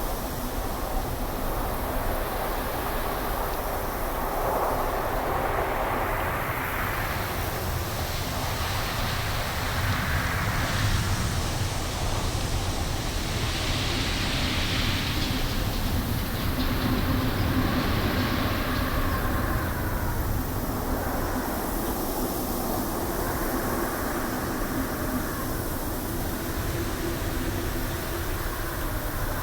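Wind blowing through trees in slow gusts: a steady low rumble under a rushing hiss that swells and fades every few seconds, strongest around the middle.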